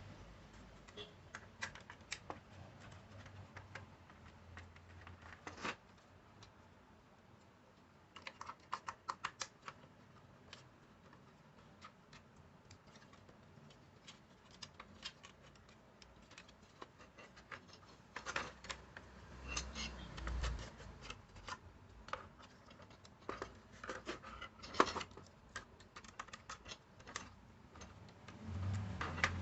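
Scattered light clicks and taps of small hard objects being handled, with a quick run of ticks about eight seconds in and busier clusters in the second half.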